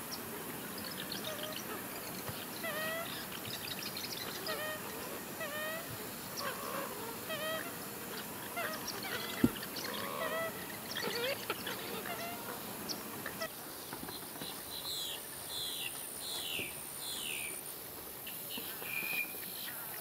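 Several wetland birds calling at once: many short, repeated calls, then a run of four quick falling chirps in the last third. A single sharp click comes about halfway through.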